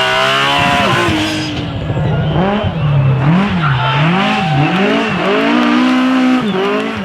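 Drift car engine revving hard, held high at first, then rising and falling over and over, about once a second, as the driver works the throttle through a slide, with tyres squealing.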